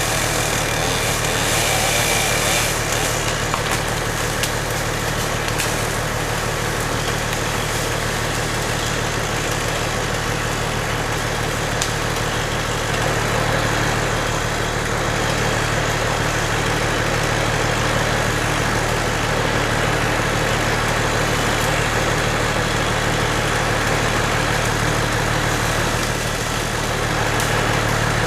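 Mobile crane's engine running steadily at a constant speed, a deep even hum with no revving.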